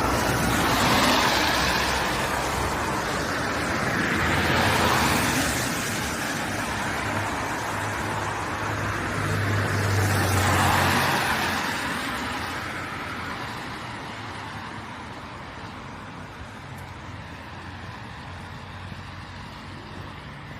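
Road traffic passing close by: vehicles go past one after another, loudest about a second in, around four to five seconds in and around ten seconds in, then the traffic noise fades to a quieter background.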